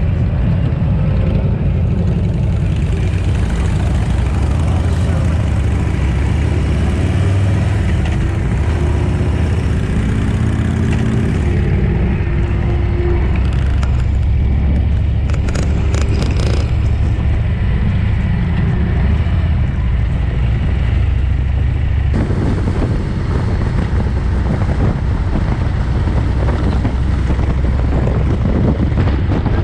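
Harley-Davidson Ultra Limited touring motorcycle running steadily at road speed, a constant low engine and wind rumble.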